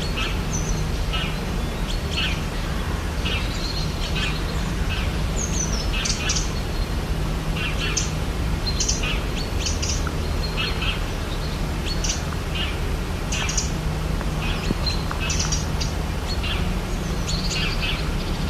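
Rainforest ambience: many birds chirping and calling, short high notes coming every second or so, over a steady low background rumble.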